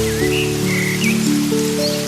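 Steady rain over soft music of long held notes that change slowly like chords, with a few short high chirps in the first second.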